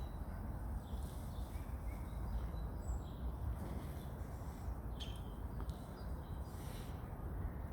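Steady low outdoor rumble with faint, scattered short bird chirps above it.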